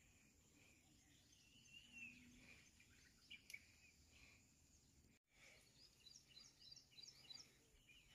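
Near silence outdoors, with faint, scattered bird chirps and a quick run of short chirps in the last few seconds.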